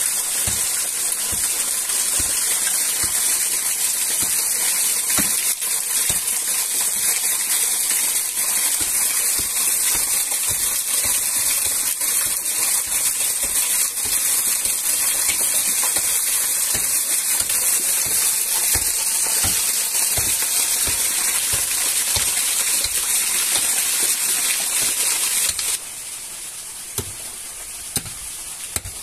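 Food frying in hot oil in a pan over a small cooking fire: a loud, steady, hissing sizzle with small pops and spatters. It turns abruptly quieter near the end.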